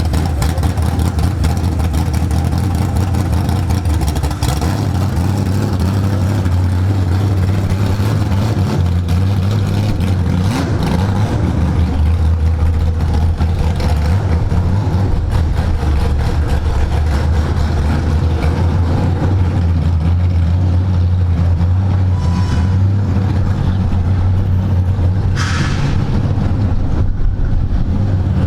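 A freshly installed race car engine running steadily at a fairly constant speed after its first start, loud and low. A brief higher hiss-like noise comes near the end.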